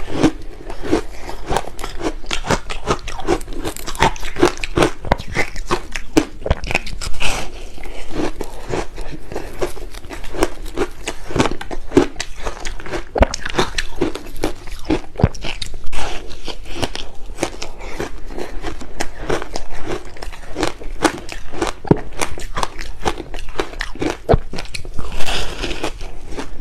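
Shave ice flavoured with passion fruit being bitten and chewed, with continuous, irregular crunching and crackling as the ice breaks between the teeth.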